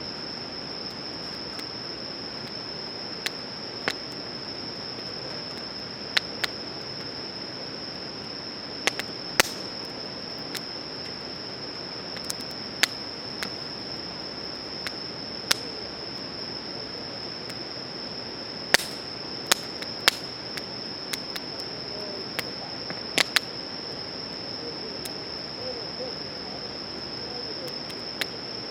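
A wood campfire crackling, with sharp, irregular pops a second or more apart. Behind it, insects chirp in one steady, high-pitched trill.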